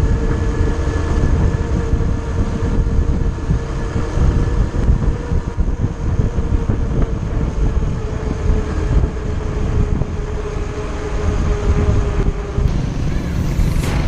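Suzuki GD motorcycle's single-cylinder four-stroke engine running at a steady cruise on the road, under heavy wind rumble on the microphone. The engine's tone holds steady and fades near the end.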